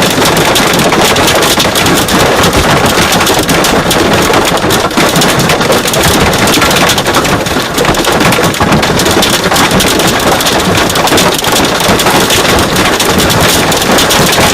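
Hail and heavy rain pelting a car, heard from inside: a loud, unbroken, dense patter of many small impacts.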